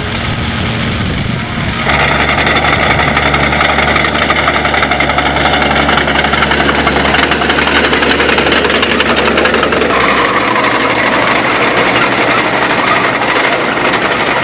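Diesel tractor engines working under load while ploughing: a steady, heavy engine sound. It grows louder about two seconds in and changes character abruptly about ten seconds in.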